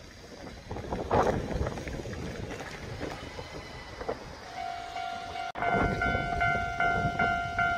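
Train running with an uneven rumble and clatter. A little past halfway a steady ringing tone comes in and, after a sudden break, pulses in a quick rhythm of about two to three rings a second.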